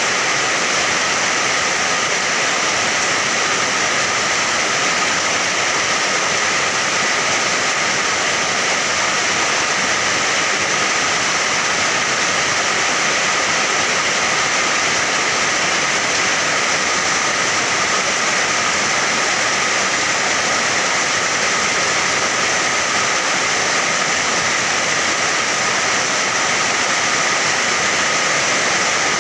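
Steady heavy rain: an even, unbroken hiss with no single drops or changes standing out.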